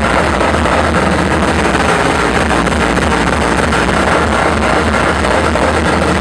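Loud electronic dance music with a heavy bass, played through a club sound system; the sound is dense and unbroken throughout.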